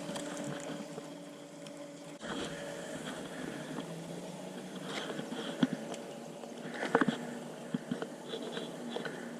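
Steady hum of a bass boat's electric trolling motor, changing pitch about two seconds in, with a few light knocks and clicks of fishing gear.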